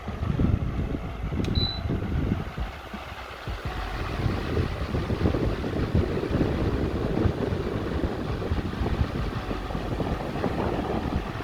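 Atomberg Efficio+ BLDC pedestal fan blowing a strong stream of air onto the microphone: an irregular, fluttering wind rumble. A single short high beep sounds about a second and a half in.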